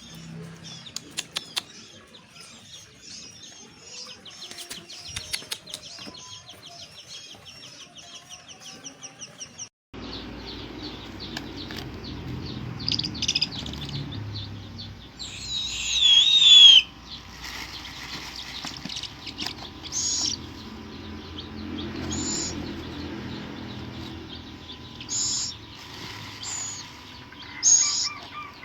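Hungry baby bird of prey calling. Rapid high chirps come first; after a cut, separate shrill calls follow, the loudest a falling screech about halfway through.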